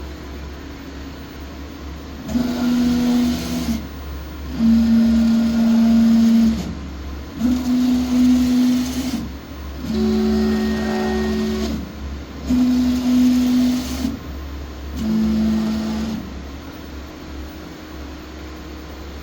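Machine's Y-axis drive making six moves in turn, each a steady droning tone of a second or two with brief pitch ramps as it starts and stops, over a constant low hum. This is the abnormal vibration sound the owner reports on the Y axis.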